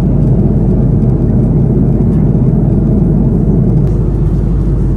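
Airbus A330-200 cabin noise in flight: a steady, loud low rumble of engines and airflow.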